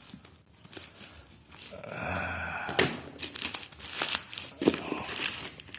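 Plastic shipping packaging crinkling and tearing as it is pulled open by hand, in irregular crackles with a longer rasping tear about two seconds in.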